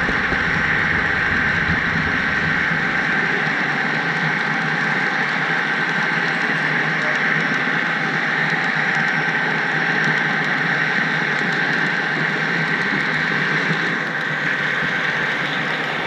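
HO scale model train rolling along the track, heard from a camera riding in the caboose: a steady rolling hiss of wheels on rail with a thin, steady high whine.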